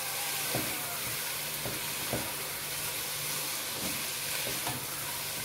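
Boneless chicken pieces and spice mix sizzling steadily in oil in a nonstick pot, being fried (bhuna) while stirred with a spatula, with a few light scrapes of the spatula against the pan.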